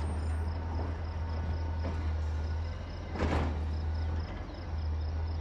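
Outdoor ambience: a steady low rumble, a brief whoosh about three seconds in, and faint, evenly repeating high chirping like an insect.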